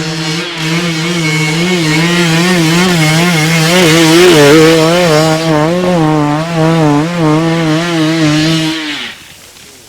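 Dirt bike engine held at high revs, its pitch wavering up and down as the throttle is worked, then dropping away about nine seconds in.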